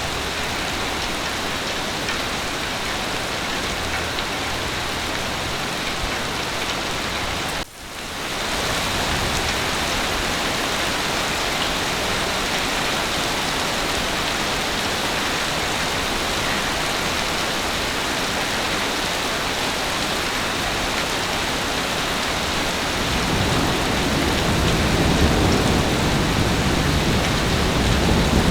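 Heavy rain falling steadily with a dense, even hiss, broken by a brief dropout about a quarter of the way in. Near the end a low rumble of thunder rises under the rain.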